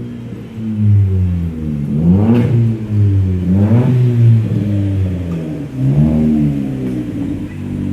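Ford Fiesta's engine revved through its exhaust: the engine is blipped about four times, each time rising in pitch and dropping back to idle.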